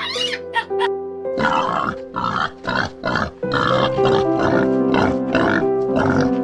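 Wild boar grunting in a rapid run, about three grunts a second, starting about a second and a half in, over background music with sustained tones.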